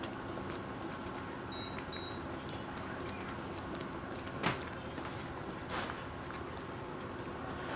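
Milk gravy bubbling in a hot skillet, with a sharp knock about halfway through and a softer one soon after.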